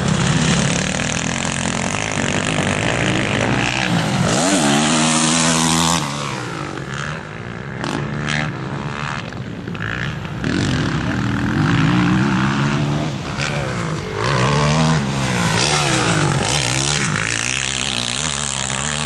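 Motocross bikes' engines revving hard as they race past, pitch rising and falling in repeated surges. There is a quieter lull from about six to ten seconds in.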